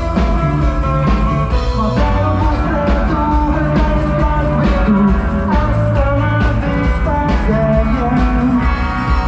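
Rock band playing live: a psychedelic rock passage with sustained electric guitar notes over a pulsing bass line and drums.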